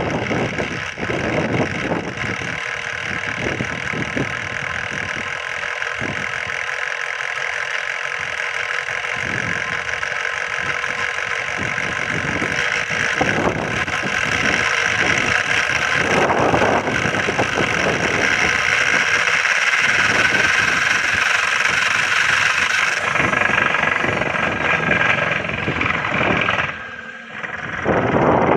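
Small model rotor of a homemade magnetic-gravity wheel spinning at high speed: a steady whirring with irregular rattling clicks, growing a little louder midway and briefly cutting out near the end.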